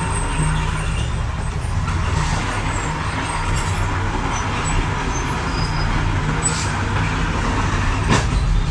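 Heavy diesel earthmoving machinery running steadily, a low engine rumble, with one sharp knock near the end.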